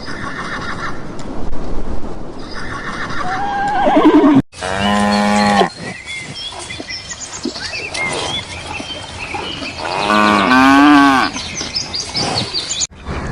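Horse whinnying in the first few seconds, then, after an abrupt cut, cattle mooing: one low call and a second, longer call near the end.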